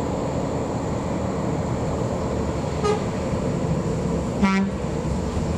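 Heavy truck engines running under a steady low rumble, with two short horn toots, a faint one about three seconds in and a louder one about a second and a half later.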